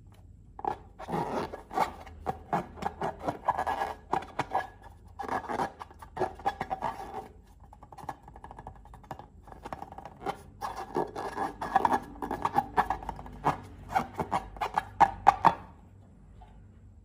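Slime being worked by hand, giving dense, irregular sticky clicks and crackles in two long stretches with a quieter pause between.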